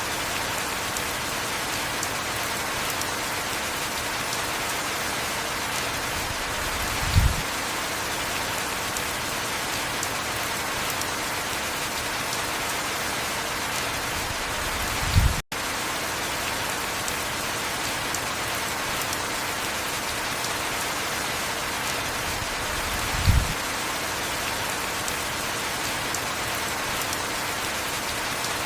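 Heavy rain falling steadily, an even hiss. A short low thud sounds three times, about eight seconds apart, and the sound cuts out for an instant about halfway through.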